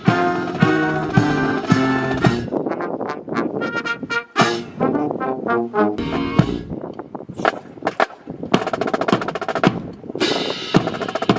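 Military band playing: held brass chords, then drum strokes and snare drum rolls a little past the middle.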